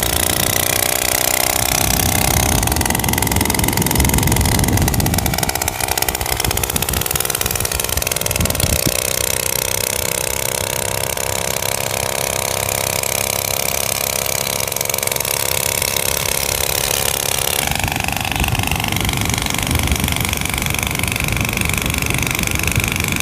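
Old TVS XL moped engine on a bicycle frame running loudly with no silencer fitted, its pitch rising and falling as it is ridden. The sound changes abruptly about three-quarters of the way through.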